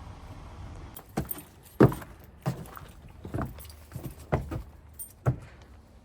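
A low steady rumble, then a run of sharp irregular clicks and knocks about one every half second to second, from about a second in.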